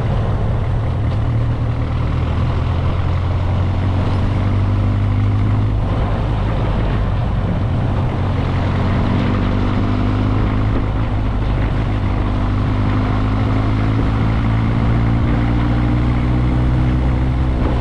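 Motorcycle engine running under way, its pitch climbing slowly twice as it picks up speed, over a steady rushing noise.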